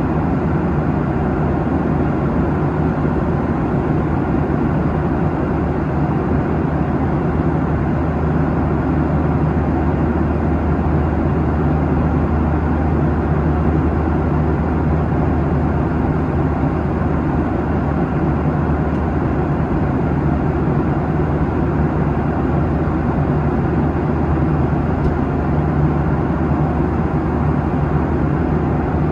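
Steady cabin drone of a Boeing 737-800 at cruise: its CFM56-7B engines and the rushing airflow make an even, unchanging roar, with a low hum and no distinct events.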